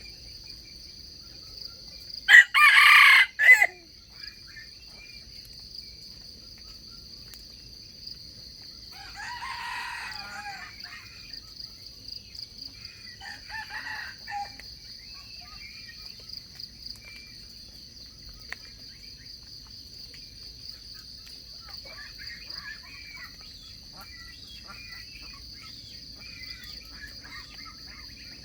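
Wild-chicken rooster crowing: one loud crow about two seconds in, then fainter crows or calls around ten and fourteen seconds. A steady high-pitched insect drone runs underneath throughout.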